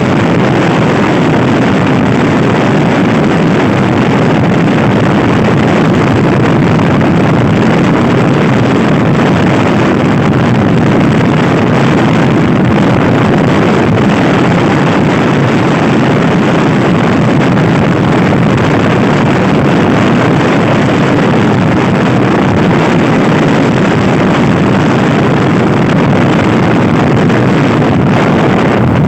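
Loud, steady wind rushing over the microphone of a Honda Scoopy-i scooter ridden at speed, drowning out the scooter's own engine.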